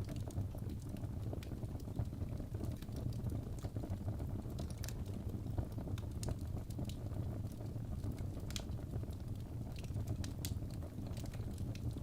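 Birch logs burning in a fireplace: a steady low rumble of the flames with frequent irregular crackles and pops, a few sharper snaps standing out.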